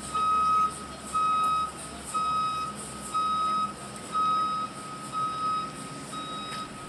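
Electronic reversing-alarm beeps: a steady single-pitch beep of about half a second, repeating about once a second, getting fainter near the end.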